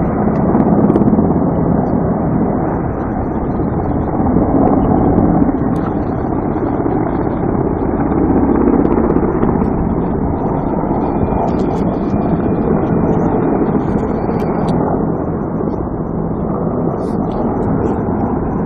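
Helicopters flying over: a loud, steady rumble of rotors and engines.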